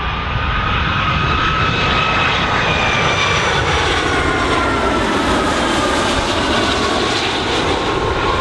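Airliner engines running loud and steady as the aircraft passes close by, their whine falling slowly in pitch.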